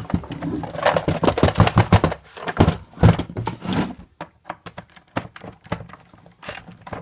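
Clicking, knocking and clattering of hard parts being handled and worked at while a belt-driven appliance is taken apart. The clicks come thick and fast for about four seconds, then thin out to scattered taps.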